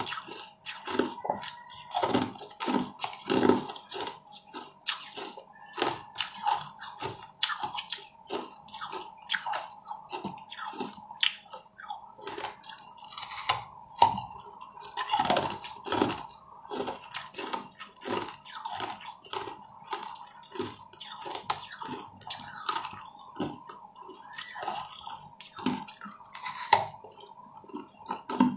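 Close-up biting and chewing of a piece of frozen yellow seeded fruit: crisp crunches and wet clicks come several times a second, with a few louder bites among them.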